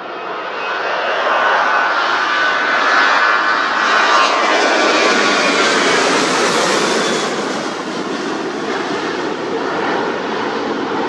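Jet airliner's engines at takeoff power passing by: loud engine noise that builds for the first few seconds, with a whine that drops in pitch about four seconds in as the aircraft goes past, then eases off slightly.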